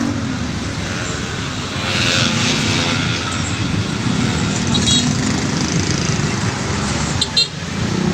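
Motorcycle engine running with road noise while riding, a steady low rumble; a couple of short clicks about seven seconds in.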